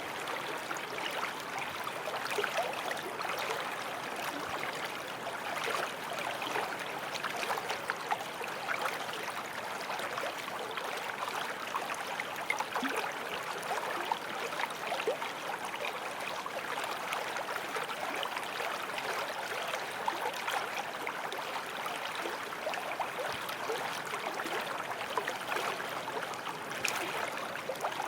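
Forest stream flowing steadily over stones, a continuous rush of water with small splashes and gurgles.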